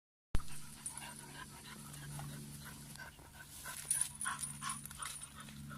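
A dog panting in quick, short breaths over a steady low hum.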